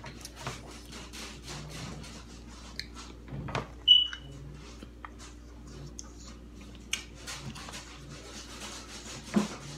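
Close-up eating sounds of corn on the cob coated with crushed Takis: many short, sharp crunches and mouth clicks from biting and chewing. About four seconds in comes a single short high-pitched beep, the loudest sound, over a steady low hum.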